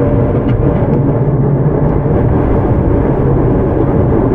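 Tokyu 9000 series electric commuter train running along the line, heard from inside the car: a steady rolling noise of wheels on rail, with a faint humming tone that weakens near the start.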